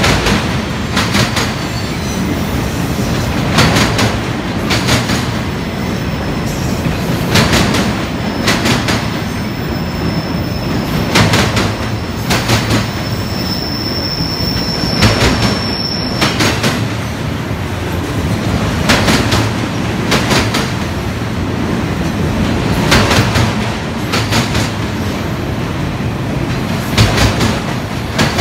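Autorack freight cars rolling past at steady speed: a continuous rumble of steel wheels on rail, with sharp clacks, often in pairs, every few seconds. A thin, high wheel squeal rises over the rumble for several seconds in the middle.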